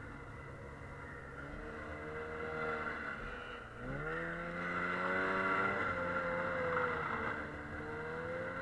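Snowmobile engine running while riding. Its pitch dips briefly a little before four seconds in, then rises sharply and holds higher as it speeds up again.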